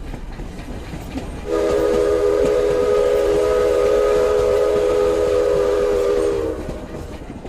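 Train sound effect: a low rumble of a moving train, then a train whistle sounding a chord of several steady tones for about five seconds from around a second and a half in, fading near the end.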